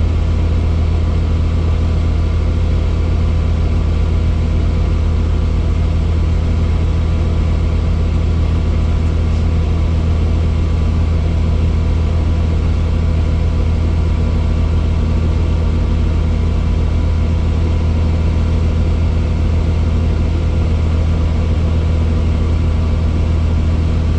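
Helicopter running steadily: a loud, constant low drone with a stack of steady tones above it.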